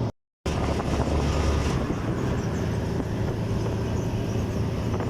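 Motor vehicle running on the road: a steady engine drone with road and wind noise, cut by a brief gap of silence just after the start.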